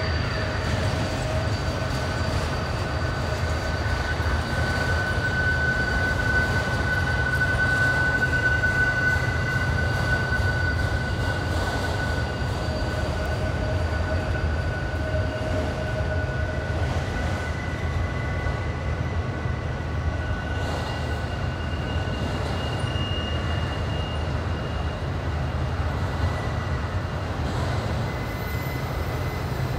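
Freight train rolling past on a tight curve: a steady low rumble of the cars, with long, high wheel-flange squeals held over it, loudest about six to nine seconds in.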